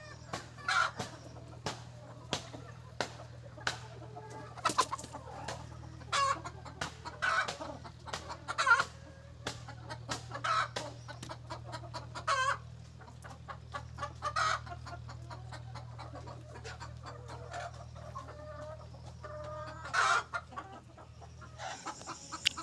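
A flock of country chickens clucking, with many short calls and light clicks scattered through, over a steady low hum.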